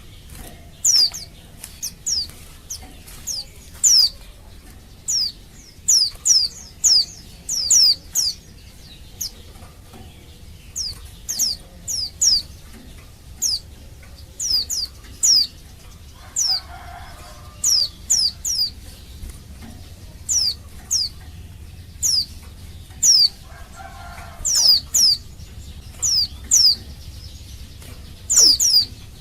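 White-eye (pleci) giving short, sharp, high call notes that sweep downward, singly or in quick pairs and triplets, repeated about every half second to second. This is the call of a female white-eye in breeding condition calling to males.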